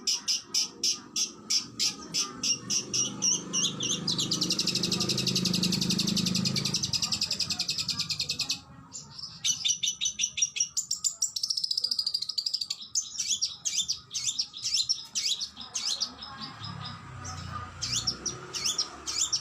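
Oriental magpie-robin (kacer) singing a fast, varied song. It opens with rapid repeated high notes, runs into a long unbroken trill about four seconds in that stops abruptly some four seconds later, and goes on with short whistled phrases.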